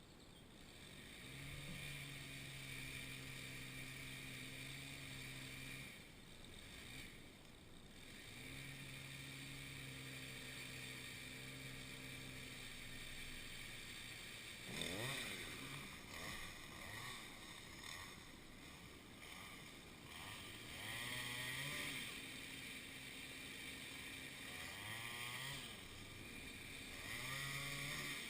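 Chainsaw running, held at a steady speed for several seconds at a time, then revved up and down several times in the second half.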